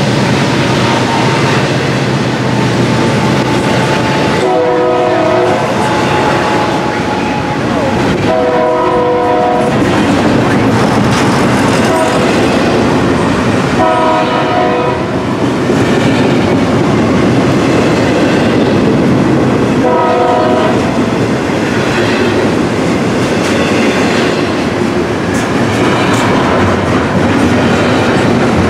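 Double-stack intermodal freight train rolling past, its wheels clacking over the rail joints. A locomotive horn sounds about four times over it, each blast about a second long.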